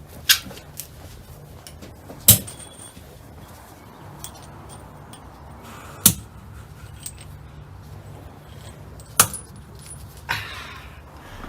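Four sharp metallic clinks and knocks of hand tools against engine parts, some ringing briefly, spaced a few seconds apart, with a short metal scrape near the end.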